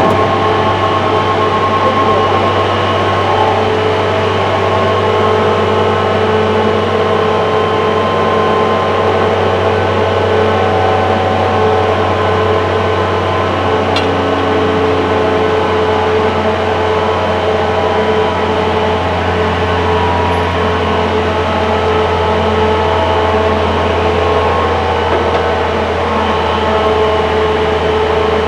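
Ingersoll Rand 132 kW variable-frequency screw air compressor running steadily, a loud, even machine hum with several steady tones over a deep low drone.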